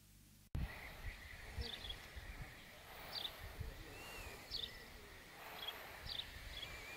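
Outdoor ambience that starts abruptly about half a second in: small birds calling with short, sharp, falling notes repeated every second or so, over a steady background hiss with occasional low thumps.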